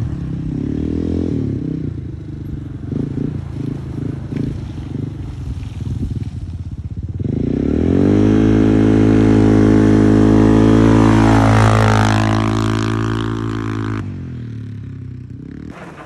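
Four-wheeler (ATV) engine running under uneven throttle, then revving up about seven seconds in and held at high revs for several seconds before easing off and dropping away near the end.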